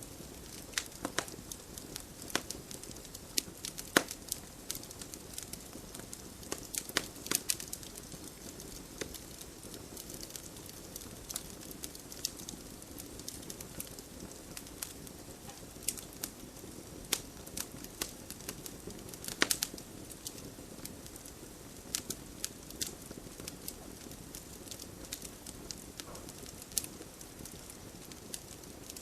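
Wood fire crackling: irregular sharp pops and snaps over a steady low rustle of burning logs, with a louder pop about four seconds in and another near twenty seconds.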